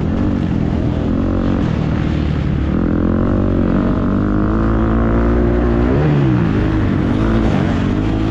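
Motocross bike engine revving up and down as it is ridden, its pitch rising and falling again and again, with a quick sharp rev about six seconds in.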